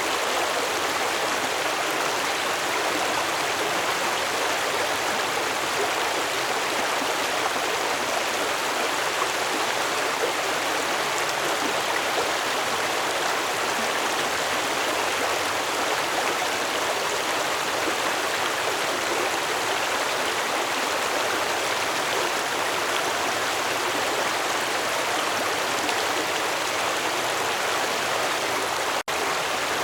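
Stream water flowing and splashing steadily over rocks. For an instant near the end the sound drops out briefly.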